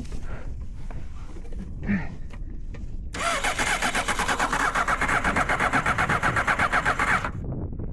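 Starter cranking the kart's 600cc engine for about four seconds, a fast, even chugging that starts and cuts off abruptly. The engine does not catch: it has stalled and will not restart.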